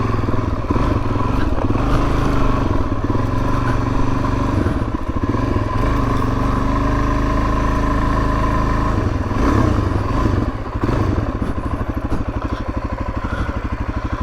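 Suzuki DR-Z400S's single-cylinder four-stroke engine running as the bike is ridden, with steady engine tone; about ten seconds in it eases off to a slower, evenly pulsing low-revving beat.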